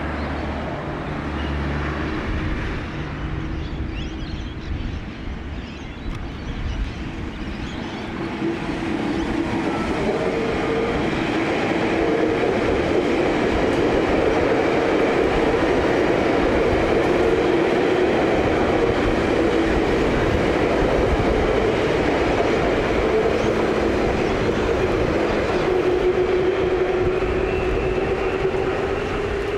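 Queensland Rail tilt train running past at speed: wheels on the rails and a steady hum that grows louder from about eight seconds in and stays loud as the carriages go by.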